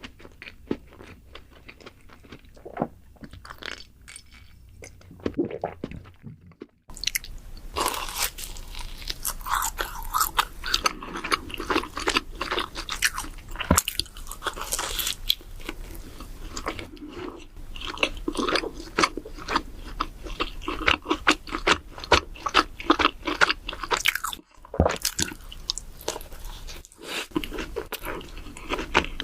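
Biting and chewing of doughnuts, a dense run of small mouth clicks. It is quieter for the first six seconds and breaks off briefly about seven and twenty-five seconds in.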